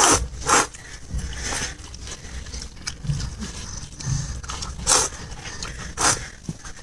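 Close-miked eating of noodle soup: four short, loud slurps, two right at the start and two near the end, with quieter chewing and mouth sounds between them.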